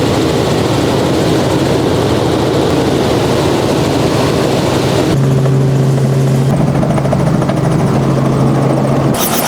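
Helicopter in flight: loud, steady rotor and engine noise with a low hum. The sound changes abruptly about five seconds in, and near the end it gives way to a rapid, even beating of the rotor.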